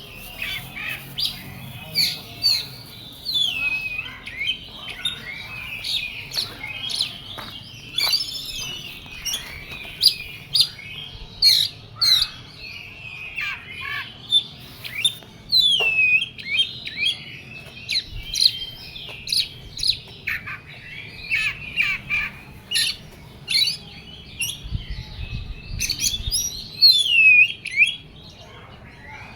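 Oriental magpie-robin (kacer) singing a loud, varied, nonstop song of gliding whistles, rapid chirps and sharp harsh notes. The bird is in an agitated, fired-up singing state ('emosi').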